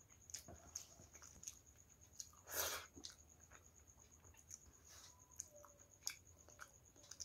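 Quiet eating sounds of rice and dal eaten by hand: soft wet chewing and small mouth clicks, with a louder wet smack about two and a half seconds in.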